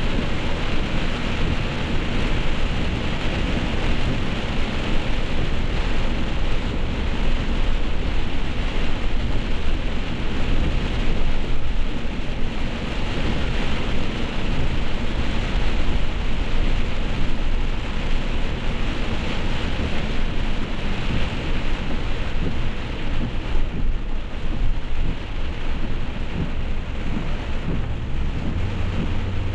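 Heavy rain, a steady hiss over a constant deep rumble, with no single claps or breaks.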